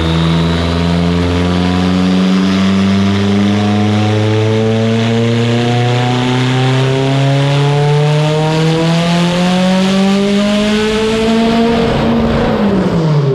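Mitsubishi Evo 8's built, turbocharged 2.0-litre four-cylinder making a full-throttle dyno pull: the revs climb in one long, steady rise, then drop sharply as the throttle is closed near the end. The fuelling is deliberately set very rich for this run.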